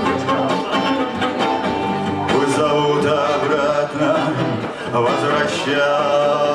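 Acoustic guitar strumming with a violin playing a melodic line, an instrumental passage of a folk song with no singing.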